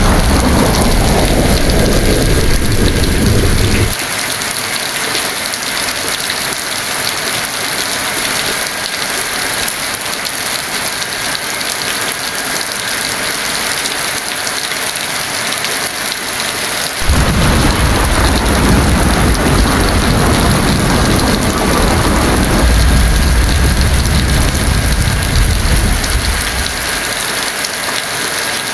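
Heavy rain falling steadily, with deep rolling thunder that stops abruptly about four seconds in. A second long rumble of thunder starts a little past halfway and dies away near the end.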